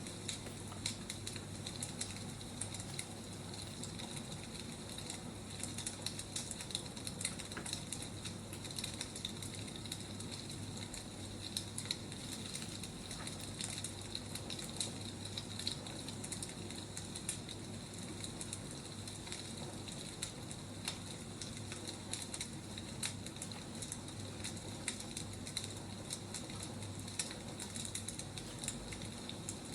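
Wood fire crackling: a steady hiss dotted with frequent small pops and snaps.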